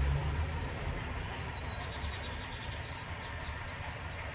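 A small bird chirps a quick high trill about halfway through, then a few short falling chirps. At the start, the low rumble of a passing road vehicle fades away.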